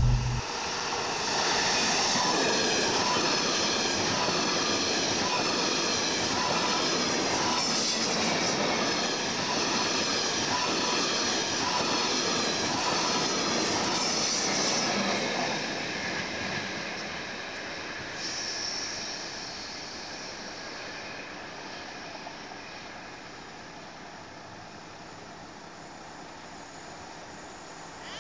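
Double-deck passenger train passing close by, its wheels running on the rails with steady high-pitched tones over the noise. The sound fades away over the second half as the train recedes.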